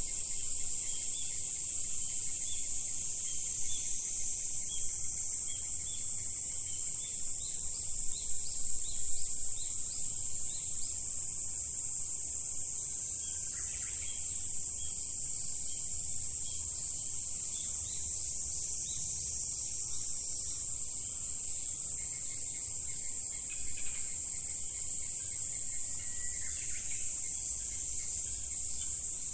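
A steady, high-pitched insect chorus drones without a break, with scattered short, high chirps over it through the first half. It thins slightly near the end.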